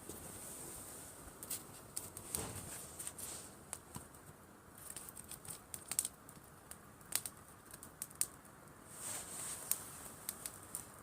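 Driftwood campfire crackling, with irregular sharp pops and snaps. Two soft rushing swells rise and fade, about two seconds in and again near the end.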